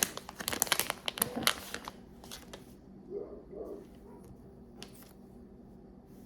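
Plastic packaging crinkling as it is handled, dense for about two seconds, then a few faint rustles.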